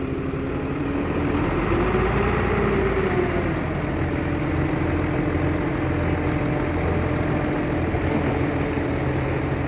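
Diesel engine of heavy earthmoving equipment running steadily, its pitch rising a little about two seconds in and easing back down.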